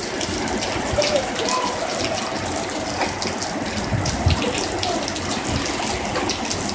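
Heavy rain pouring down steadily, with water splashing and gushing.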